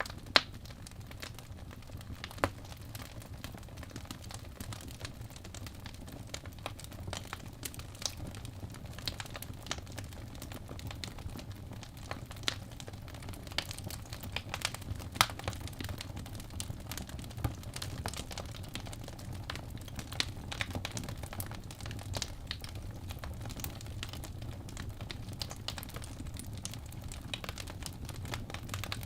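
Birch logs burning in a fireplace: a steady low rumble of the flames with frequent irregular crackles and occasional louder pops.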